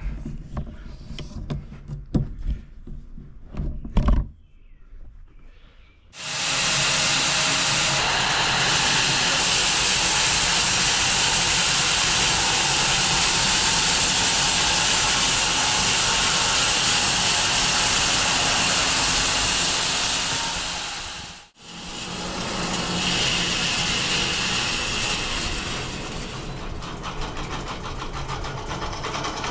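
A few knocks and clunks, then a home-built 6 ft wide bandsaw mill running loud and steady as its blade cuts through an elm log. The noise breaks off abruptly for an instant past the middle, comes back with a high whine for a few seconds, then settles a little quieter.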